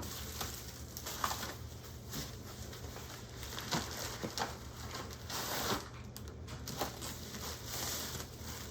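Unboxing items and packaging being handled: scattered light clicks and knocks, with packaging rustling twice, around the middle and near the end.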